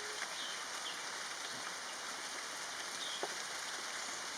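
Steady, even hiss of outdoor ambience with a few faint, short bird chirps.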